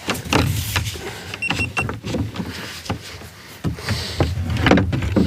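Knocks and clatter of gear moving on a kayak, over a steady low rumble, with a brief high tone about a second and a half in.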